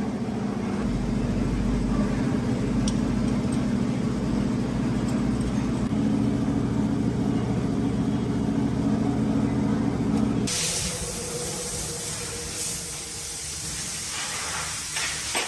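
A heavy engine running steadily, its note stepping up a little about six seconds in. It gives way suddenly near the end to a loud, steady hiss of air or spray.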